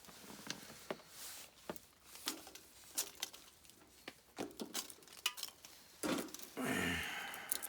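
Scattered light clicks and clinks of dishes and utensils being handled, with a short rushing noise near the end.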